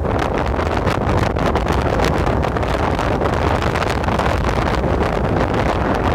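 Storm wind gusting against the microphone: a loud, steady rush with a heavy low rumble and crackling buffets.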